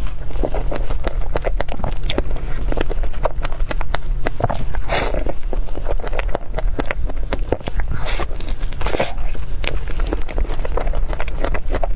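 Close-miked chewing of a soft cream-filled crepe roll: dense wet mouth clicks and smacks, with a few breathy hisses from sucking in air, over a steady low hum.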